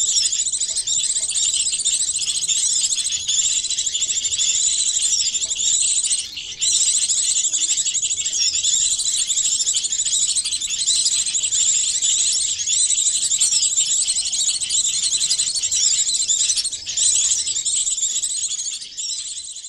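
Bird-lure recording that layers the calls of many small songbirds into one dense, continuous run of high chirps and twitters, made to draw small birds in. There is a brief break about six and a half seconds in, and the sound fades near the end.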